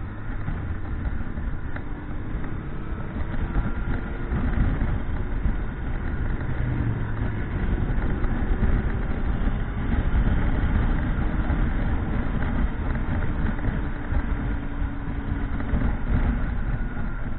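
Motorcycle underway: its engine note rising and falling several times under a heavy low wind rumble.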